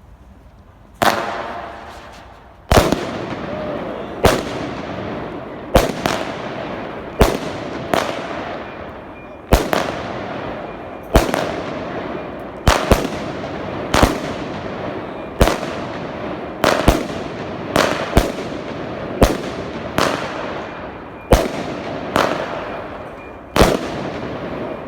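Consumer firework barrage cake firing: a loud bang roughly every one and a half seconds after about a second of quiet, each shot trailing off in a fading crackle and hiss.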